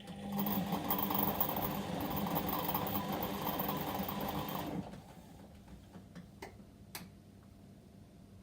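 Whirlpool washing machine on a delicate wash cycle running with a steady mechanical whirr for about five seconds, then stopping abruptly, followed by a couple of faint clicks.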